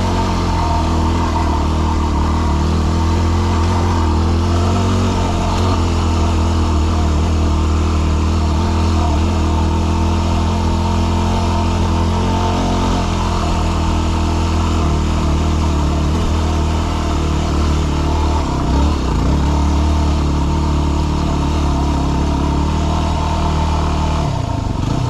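Yamaha WR250R's single-cylinder four-stroke engine running steadily under load as the dual-sport bike climbs a rocky trail, its engine speed dipping briefly a couple of times in the second half.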